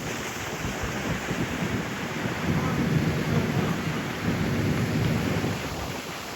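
Wind buffeting the microphone on a moving boat: an uneven low rumble over a steady hiss of wind and water.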